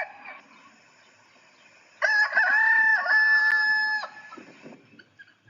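Rooster crowing: one full cock-a-doodle-doo of about two seconds, rising into a long held note and dropping off at the end. The last of an earlier crow fades out at the very start.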